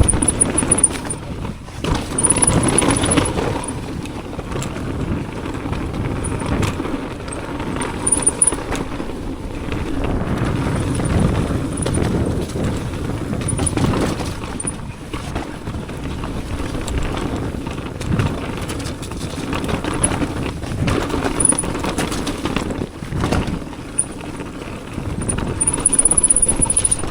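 Yeti mountain bike descending a rough trail: tyres rolling over dirt and rocks, with frequent knocks and rattles from the bike.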